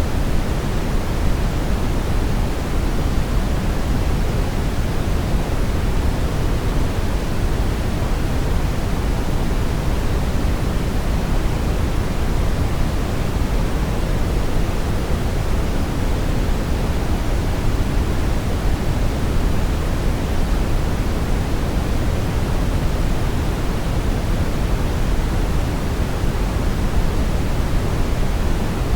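Steady brown noise: an even, deep rushing hiss weighted toward the bass, with no change or events.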